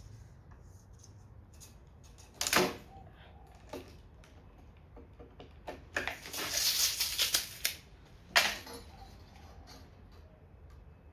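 Timber and hand tools being handled on a workbench: a sharp wooden knock, then a second or so of rough scraping and clatter, then another sharp knock.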